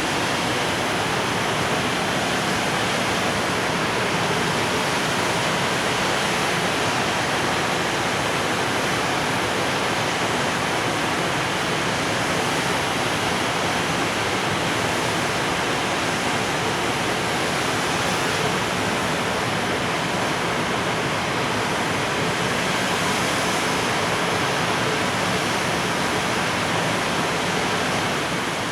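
Container freight train rolling past: the wheels of its Koki container wagons make a loud, steady rushing noise on the rails.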